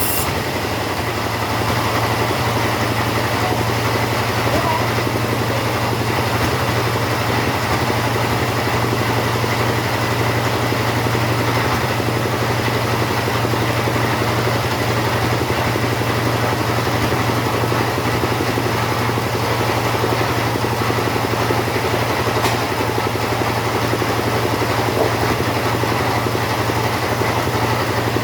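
Two-stroke chainsaw running steadily at a constant pitch.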